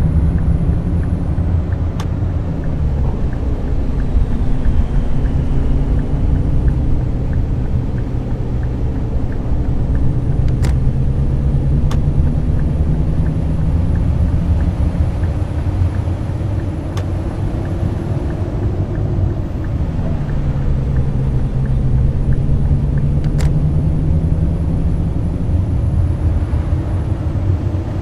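Scania K420 double-decker bus engine running as the bus drives. Its note drops twice and then climbs slowly, as with gear changes and acceleration.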